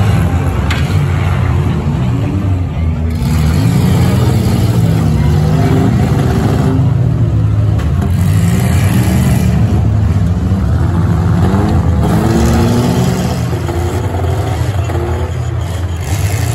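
Several 1990s-and-newer demolition derby cars with engines revving hard at once, their pitches rising and falling as they accelerate and back into each other. Now and then there is a short crunch of a collision.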